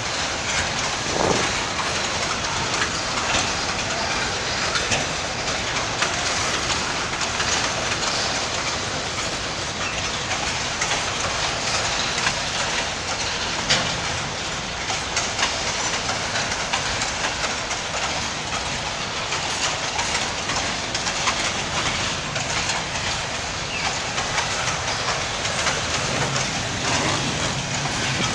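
Freight train's boxcars and hopper wagons rolling past on steel rails: a steady rumble of wheels on track, with wheels clicking over the rail joints.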